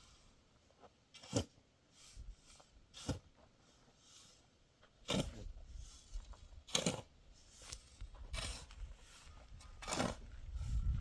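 A series of short, sharp handwork strokes: about six loud ones roughly a second and a half apart, with fainter ones in between.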